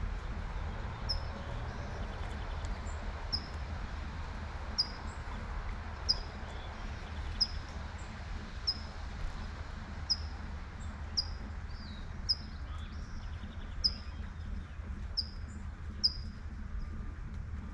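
A bird repeats a short, sharp, high chirp about once a second, over the steady hiss of light rain and a low rumble of distant traffic.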